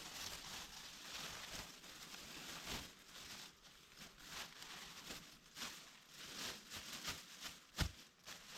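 Leaves and twigs rustling and crackling in a run of short, irregular bursts, with one sharper knock near the end.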